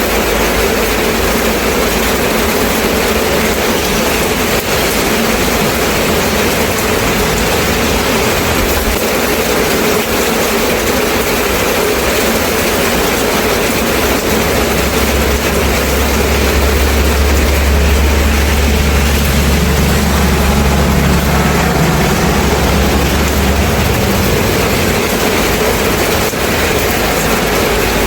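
Steady heavy rain falling. About halfway through, a deep low rumble comes in, holds for about ten seconds, then stops.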